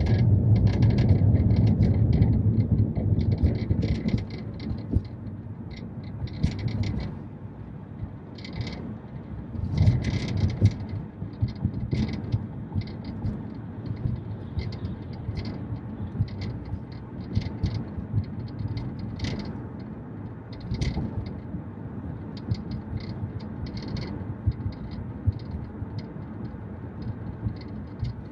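Inside a 2019 Mazda 3 sedan on a rough road: steady low road rumble with many short, sharp rattles and clicks coming at uneven intervals. The rumble is loudest for the first few seconds, then eases. The rattle comes from the rear of the car, and its cause is not known to the owner.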